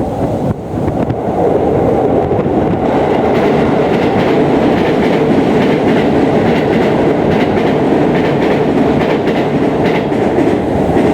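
Strong wind buffeting the microphone: a loud, steady rushing rumble with no bird calls heard.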